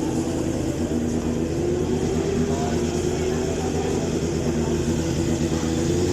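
Racing motorcycle engines running at a superbike circuit, a steady drone whose pitch slowly rises and falls.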